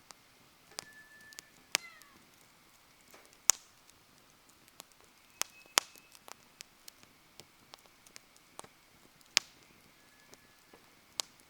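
Wood campfire crackling: irregular sharp pops and snaps, some loud and many faint, with a few brief faint whistling tones.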